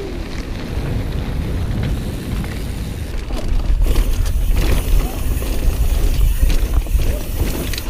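Mountain bike rolling over a dirt trail: low wind rumble on the microphone with tyre and frame rattle, getting louder and hissier about four seconds in.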